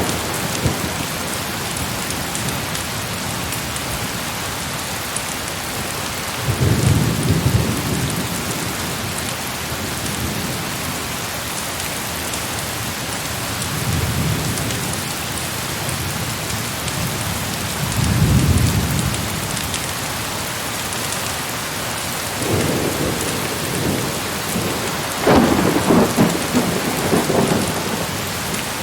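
Heavy rain falling steadily, with distant thunder rolling low about five times, the longest and loudest rumble near the end.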